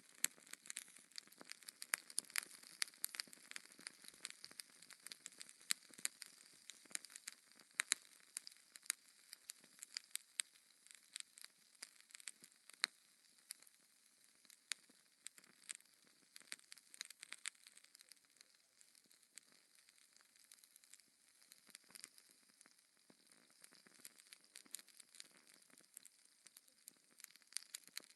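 Wood fire crackling in a fireplace: a dense, irregular run of small sharp pops and snaps over a soft hiss, thinning slightly past the middle.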